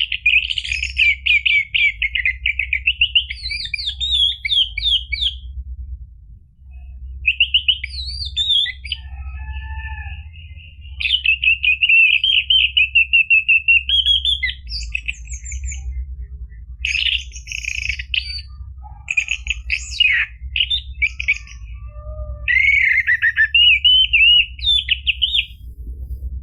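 Orange-headed thrush singing a run of varied phrases: fast, warbled trills and whistles broken by short pauses, over a steady low hum.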